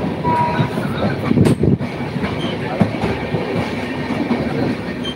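Passenger train running, a steady rumble and rattle of wheels on the track heard from inside a coach at an open window. There is a louder rattle about a second and a half in and a brief high steady tone near the start.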